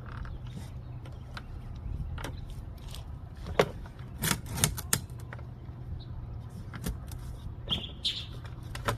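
Hand tools clicking and clinking against metal in irregular bursts, loudest about halfway through, over a steady low hum.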